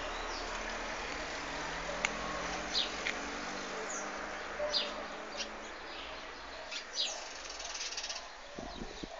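Birds chirping in short, scattered calls over a steady background hum.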